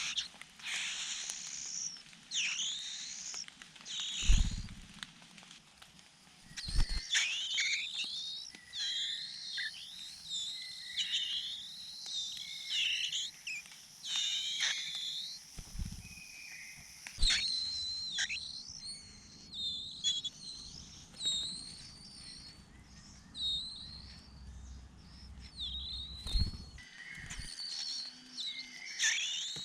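Small birds chirping: many quick, high notes that sweep down and up in pitch, coming in runs with short pauses. A few dull low thumps sound in between.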